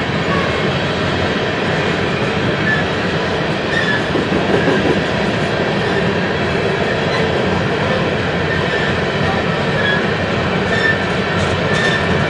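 BNSF freight train rolling past, a steady loud rumble and clatter of wheels on rail with a few brief, faint wheel squeaks.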